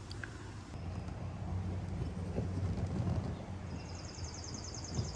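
A bird singing a rapid trill of high, evenly repeated notes for about two seconds, starting in the second half, over a low rumble, with a single soft thump near the end.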